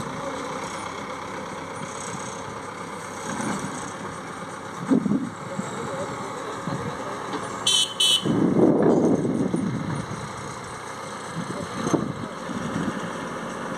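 Heavy diesel machinery running, a JCB working to pull out a stuck, loaded New Holland tractor and trolley, with two short high toots about eight seconds in and a louder surge of engine sound just after.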